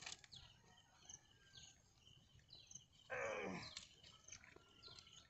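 Small birds chirping faintly and repeatedly in short high calls. About three seconds in comes one louder, second-long sound that falls steeply in pitch.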